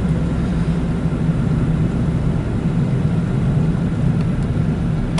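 Steady drone of a car's engine and tyres heard from inside the cabin, driving at about 40–45 mph.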